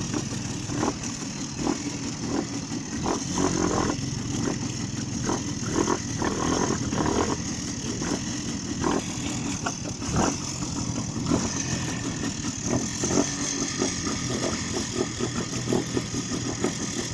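Off-road vehicle engine running and revving unevenly, with many short knocks and cracks through it.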